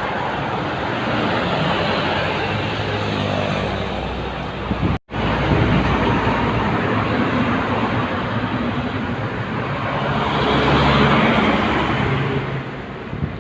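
Heavy trucks passing close on a highway: deep engine drone under loud tyre and road noise. The sound cuts out for an instant about five seconds in, then swells again as another truck passes and fades near the end.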